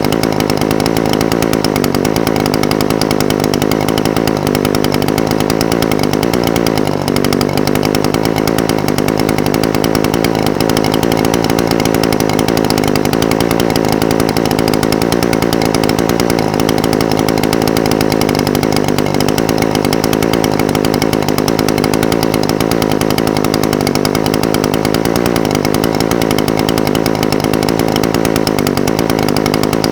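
Echo SRM-420TES brush cutter's two-stroke engine idling steadily, with a brief waver in pitch about seven seconds in.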